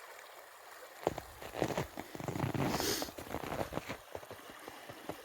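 Crackling and rustling close to the microphone for a few seconds, over the faint steady rush of a river.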